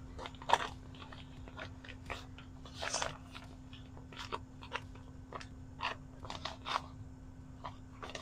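Small tubing cutter being turned around a copper water pipe, its cutting wheel scoring the copper with irregular crunchy clicks and scrapes.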